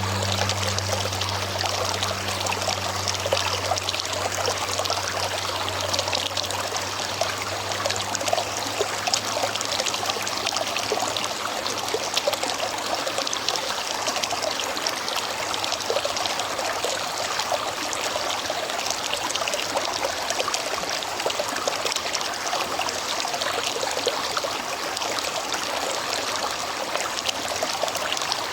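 River water flowing steadily, a continuous rushing and trickling. A low hum underneath fades out over the first few seconds.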